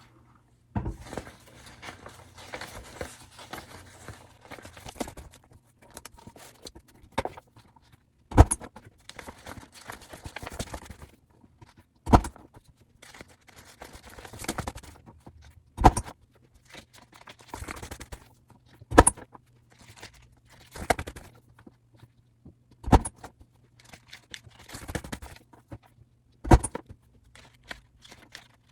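A desk hole punch pressed down through small stacks of printed paper, giving about seven sharp clunks every three to four seconds, with pages rustling and being shuffled between the punches.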